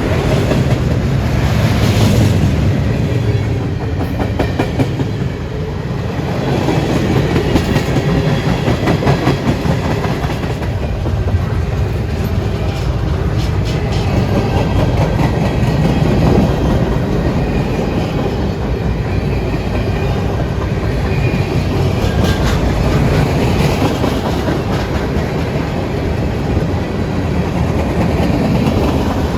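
CSX freight train's cars rolling past at close range, a steady loud rumble with wheels clicking and clacking over the rail joints.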